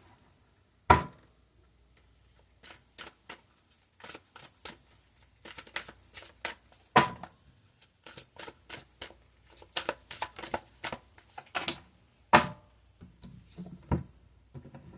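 Tarot cards being shuffled by hand: an irregular run of short snaps and taps, with one sharp click about a second in.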